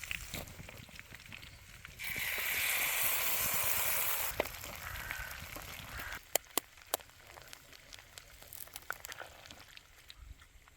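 Breakfast food sizzling in a frying pan over an outdoor fire. About two seconds in, a loud sizzle lasts roughly two seconds and then cuts back to a softer hiss. A few sharp clicks follow, the sound of utensils on the pan.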